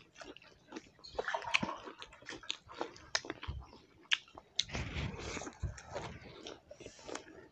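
Close-up eating sounds: people chewing pasta and roti, with many short, scattered clicks and soft smacks.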